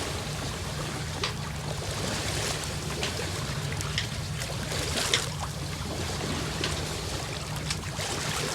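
Water trickling and splashing along a sailboat's hull as it moves slowly under sail, with small irregular splashes over a steady low hum.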